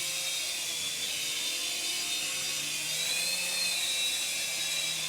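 Syma S107 mini RC helicopter's small electric motors and coaxial rotors running with a high, steady whine, which rises in pitch about three seconds in.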